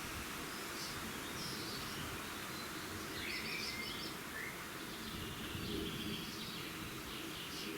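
Birds chirping with short scattered calls over a steady background hiss of outdoor noise.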